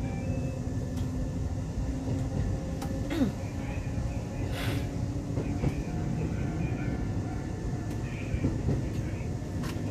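Keisei 3500 series electric train running, heard from inside the car: a steady rumble of wheels on rail with a faint motor hum and scattered sharp clicks, a short falling tone about three seconds in and a brief hiss about halfway.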